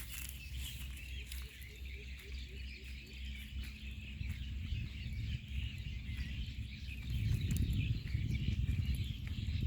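Outdoor chorus of many small birds chirping continuously, with a quick run of short low notes a second or two in. A low rumbling noise swells about seven seconds in and is the loudest part near the end.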